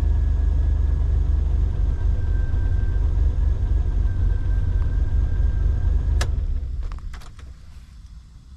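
Jeep engine idling steadily with a faint whine above it; about six seconds in a sharp click comes and the engine shuts off, leaving a few small clicks.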